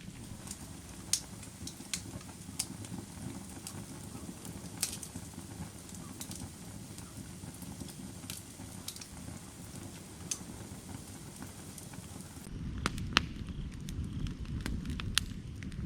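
Burning firewood crackling, with scattered sharp pops over a low rumble of flames. About twelve and a half seconds in, the sound shifts abruptly to a louder rumble.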